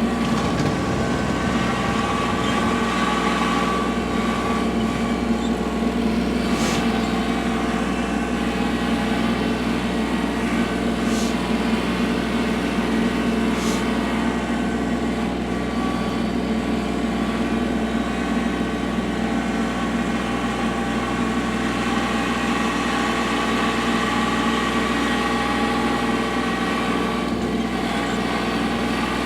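Kubota L3301 tractor's three-cylinder diesel engine running steadily, with a few brief clicks.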